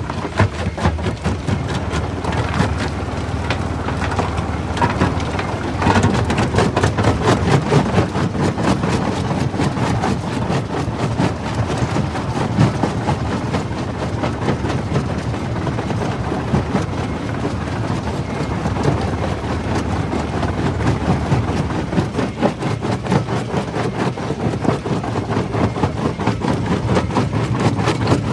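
Jaw crusher running and crushing stone: a steady low rumble from the machine, covered in a dense, continuous crackle of rock cracking and grinding between the jaws.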